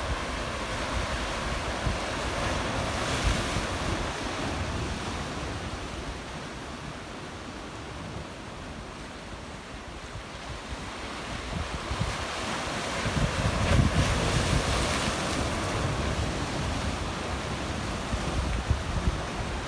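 Black Sea waves washing against a rocky shore, swelling louder about two thirds of the way through, with wind buffeting the microphone in gusts.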